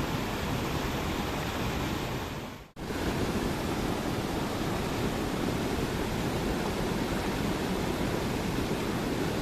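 Steady rush of flowing river water over rocks. It fades out briefly about two and a half seconds in, then comes back a little fuller.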